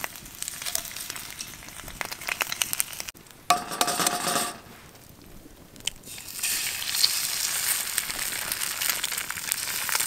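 Bacon sizzling and crackling in a hot frying pan, with a short clatter about three and a half seconds in. About six seconds in, eggs are cracked into the pan and a loud, steady sizzle takes over.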